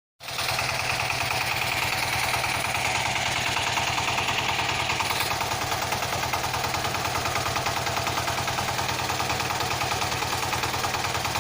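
A small motor running steadily with a fast, even pulsing buzz and a low hum. It cuts off abruptly near the end.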